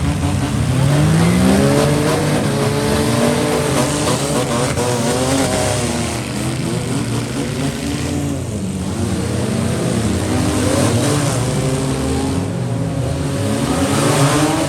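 Engines of several demolition derby vans, trucks and SUVs revving at once, their overlapping pitches rising and falling continuously over a loud, steady roar.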